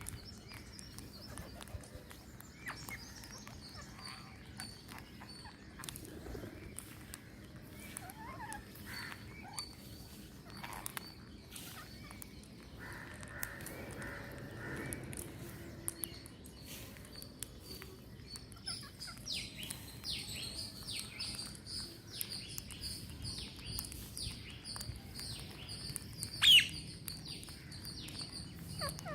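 A mix of wild bird calls and chirps, with a steady high note under them. The chirping grows busier near the end, and one loud, sharp call stands out near the end.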